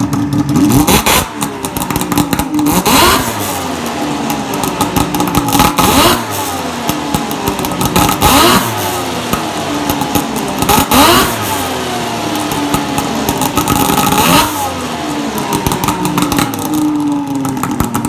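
Motorcycle engine idling and revved about six times, each rev rising sharply in pitch and falling back to idle.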